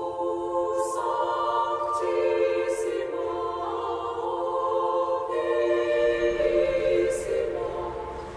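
Choir singing slow, held chords, each chord lasting a second or two before moving to the next.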